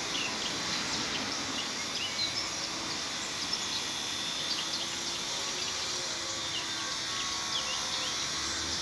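Small birds chirping, many short quick calls scattered throughout, over a steady background hiss.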